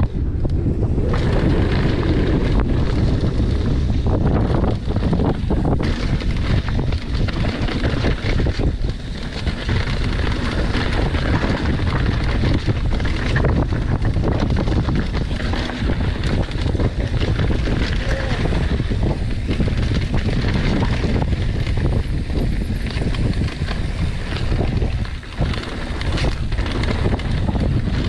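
Wind buffeting the rider's action-camera microphone with a steady low rumble, over the clatter and rattle of a mountain bike descending a rough downhill trail.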